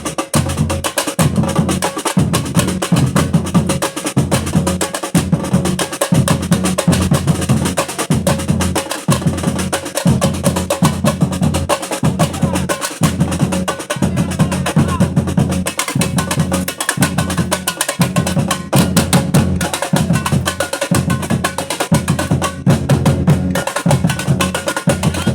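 Batucada percussion ensemble playing a steady samba rhythm: deep bass drum strokes pulsing about once a second under dense, rapid higher drumming.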